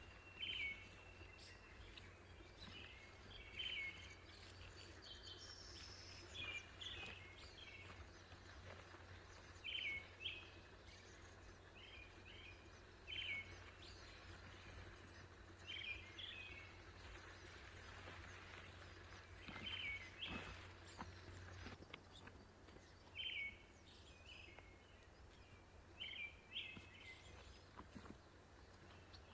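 Bird calls outdoors: short, high chirps in small clusters, repeating every two to three seconds, over a faint, steady low rumble.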